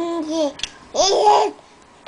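Baby babbling: two short high-pitched vocal sounds of about half a second each, the second, louder one about a second in.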